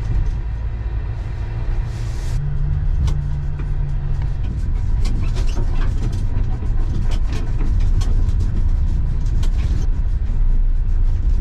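Steady low engine rumble with many small rattles and knocks over it, and a brief hiss about two seconds in.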